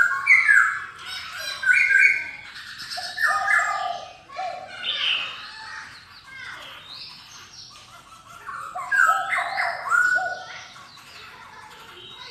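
Black-throated laughingthrush singing loud, repeated whistled phrases. The song eases off through the middle and comes back strongly about nine seconds in.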